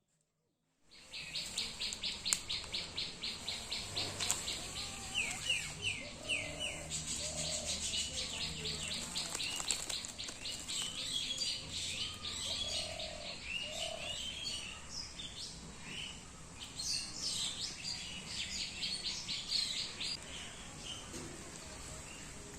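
Birds chirping and calling, with long runs of rapidly repeated high notes and quick slurred chirps, over a steady high-pitched whine. The sound begins suddenly about a second in.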